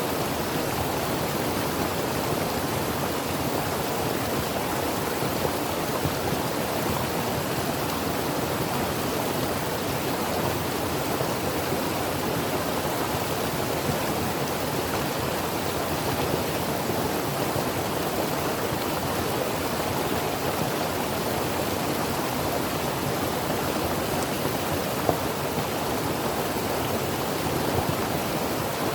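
Creek water flowing and splashing over rocks, a steady, even rush.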